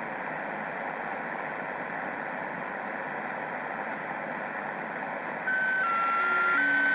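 Shortwave receiver hiss on 7080 kHz in lower sideband. About five and a half seconds in, a louder signal cuts in: steady tones that hop between a few pitches every few tenths of a second.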